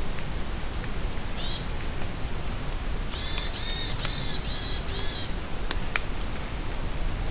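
Steady rain in a forest with a bird calling: one short harsh call about a second and a half in, then a run of five harsh calls in quick succession in the middle. Faint high chirps and a few sharp drips are scattered through.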